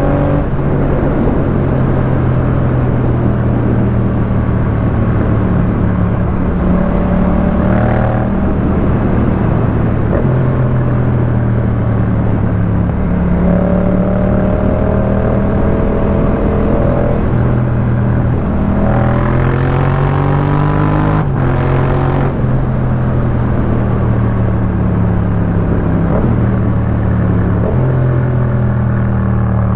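Yamaha MT-07's 689 cc parallel-twin engine running through a Jeskap K4 full aftermarket exhaust while riding. Its pitch steps up and down with throttle and gear changes, climbing around twenty seconds in with a brief break at a shift.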